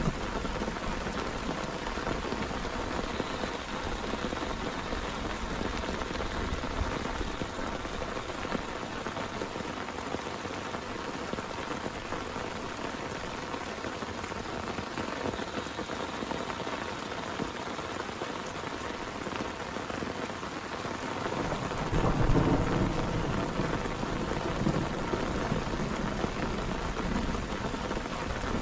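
Heavy rain pouring steadily, with a low rumble of thunder swelling about three quarters of the way through and fading over a few seconds.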